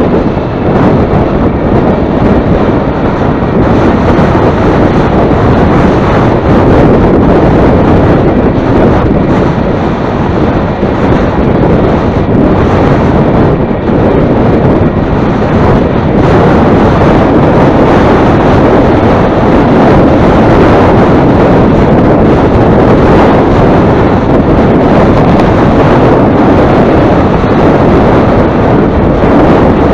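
Loud, steady wind buffeting the microphone, a continuous rumbling rush.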